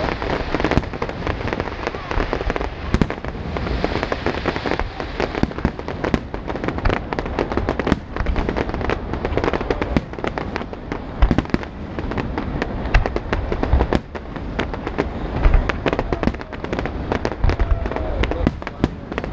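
Fireworks display going off continuously: a dense run of sharp bangs and crackles with deeper booms underneath.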